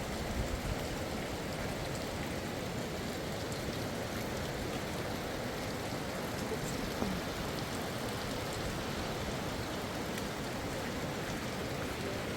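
Steady rainfall, an even hiss of rain on surfaces that does not let up.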